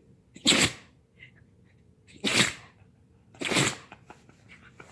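A dog sneezing three times in a row: short, sharp sneezes, the second about two seconds after the first and the third about a second later.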